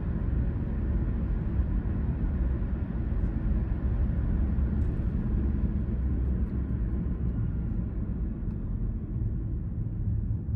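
A car being driven, with a steady low rumble of engine and tyre noise. The higher hiss eases off near the end.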